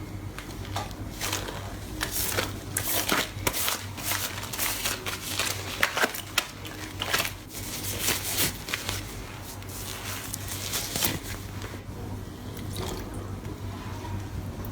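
Slime being squeezed and pressed by hand, a close-up run of wet squishing with many quick popping clicks that thins out over the last few seconds.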